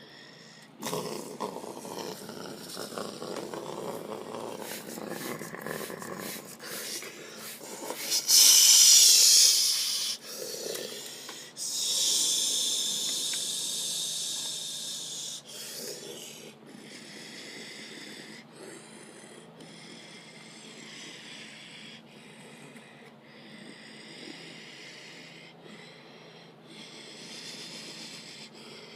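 Ryko Soft Gloss automatic car wash working over a car: cloth brushes rubbing and water splashing, with loud spray hissing about eight seconds in and again from about twelve seconds, that second burst fading off.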